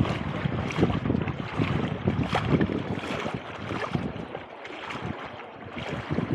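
Wind buffeting the microphone in gusts over the wash of small waves on the shore.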